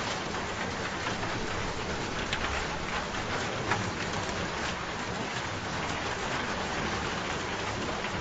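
Steady rain falling, with louder single drops splashing now and then.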